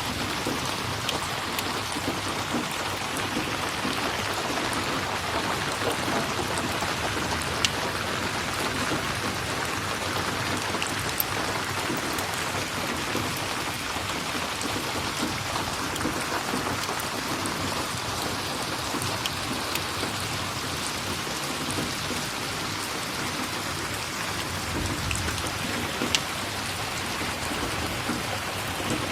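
Steady rain falling, with a few sharp crackles typical of a wood fire in a fireplace, and a brief low rumble near the end.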